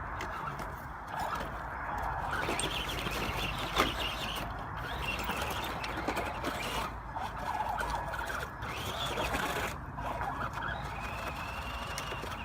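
Small electric motor of an RC truck whining as it drives, the pitch rising and falling with the throttle over a steady gritty rumble, with one sharp knock about four seconds in.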